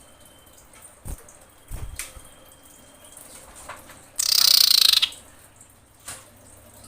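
A female common iora gives one harsh, rasping call about four seconds in, lasting under a second. This is the call of a female in breeding condition calling to males. Two soft, low thumps come earlier.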